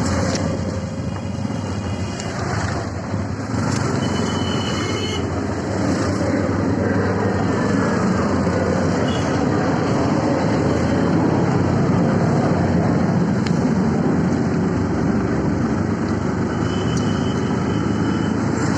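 Riding in a CNG auto-rickshaw in the rain: a steady wash of engine, tyre and road noise with wind, and two brief high tones, about four seconds in and near the end.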